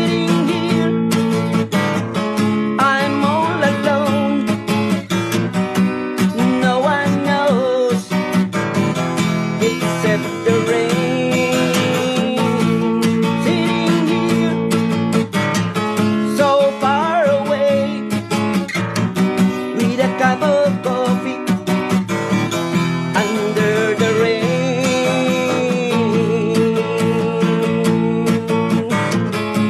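Acoustic guitar music: steady strummed chords with a wavering melody line over them, an instrumental stretch of an original song with no words sung.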